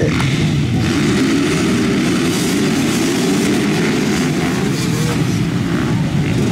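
A field of off-road racing motorcycles running together, their engines blending into a dense, steady drone.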